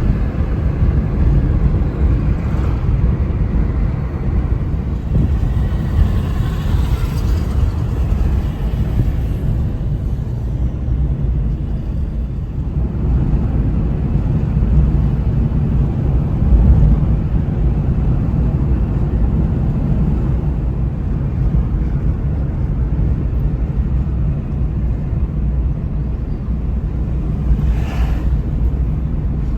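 Steady low rumble of ocean surf with wind on the microphone, with a brief brighter wash near the end.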